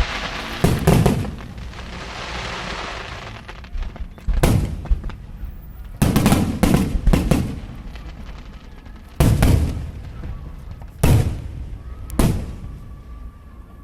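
Aerial firework shells bursting in a string of sharp booms, about ten of them, several in quick succession around the middle. A hissing crackle of crackling stars follows the first bursts for a couple of seconds.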